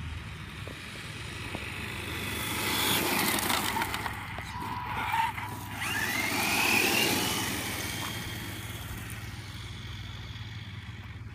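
Electric radio-controlled car driving on dirt: its motor whine and tyre noise swell for several seconds, with a whine rising in pitch as it speeds up about six seconds in.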